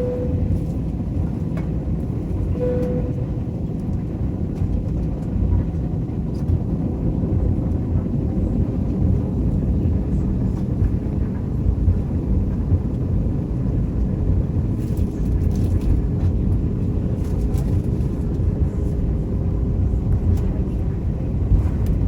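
Airbus A321 cabin noise heard from a window seat: a steady low rumble from the airliner's engines and airframe, with a faint steady hum.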